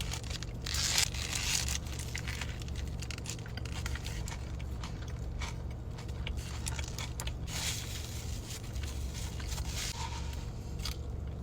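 Eating sounds: scattered crunches, crackles and rustles, picked up close by the microphone over a steady low hum.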